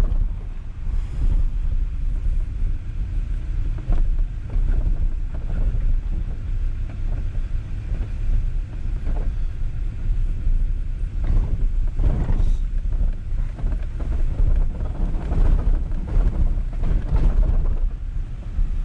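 Pickup truck driving on a rough backcountry road: a steady low rumble with wind buffeting the microphone and occasional knocks from bumps.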